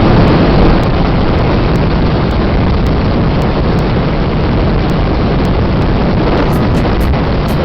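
Loud, steady wind buffeting the microphone aboard a sailboat running downwind, a constant low rush with no engine or other distinct sound in it.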